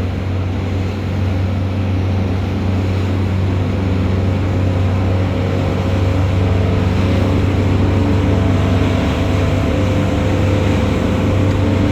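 Twin Suzuki 350 hp four-stroke outboards running steadily at cruising speed, a deep even drone heard from aboard the boat, mixed with the rush of wind and water.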